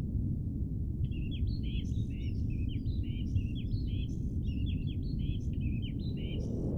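A songbird singing a fast, continuous run of short chirping notes, starting about a second in and stopping shortly before the end, over a steady low background rumble of outdoor noise.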